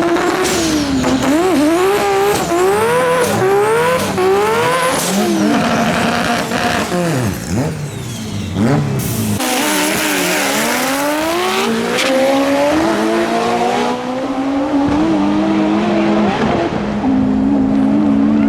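Drag race car engine accelerating hard, its pitch climbing and dropping back several times in quick succession as it runs through the gears. It then falls away and later settles into a steadier, lower note.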